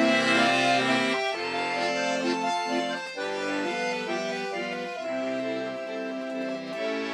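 Accordion playing a melody over held chords, with no singing.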